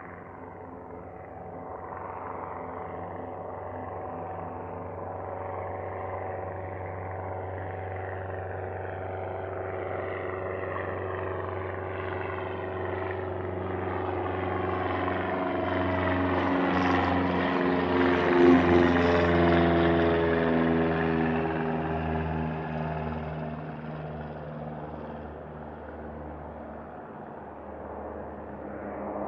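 An aircraft going past the runway, its engine sound growing louder to a peak about two-thirds of the way through, then fading with the pitch dropping as it passes.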